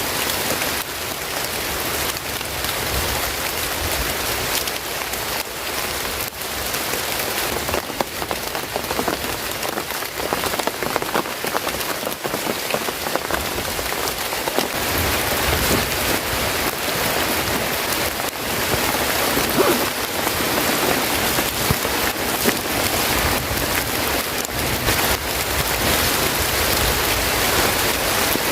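Rain falling steadily: a constant hiss with many close drops ticking throughout.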